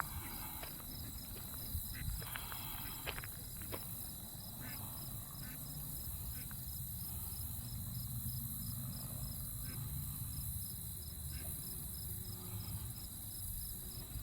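Insects trilling: a steady high-pitched trill with an evenly pulsing chirp just above it, over a low background rumble.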